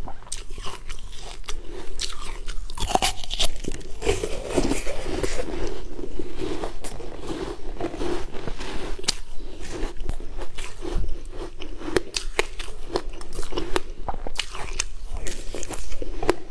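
A person chewing and crunching a mouthful of crunchy food close to a clip-on mic, with many quick, sharp crackles throughout.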